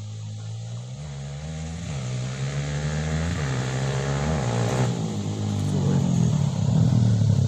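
Trail motorcycle with a homemade roncador exhaust running under throttle, its engine note changing in steps as if through gear changes, growing steadily louder.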